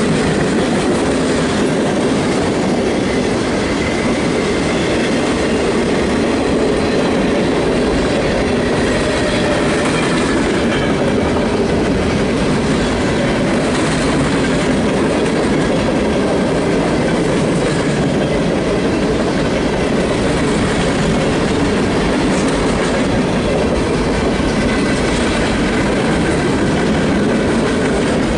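Freight train cars rolling steadily past, the steel wheels running on the rails in a loud, even rumble.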